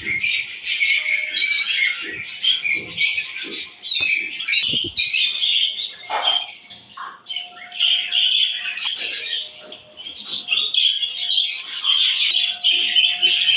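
A flock of aviary birds chirping and squawking together, many calls overlapping without a break. A few soft knocks sound in the first few seconds.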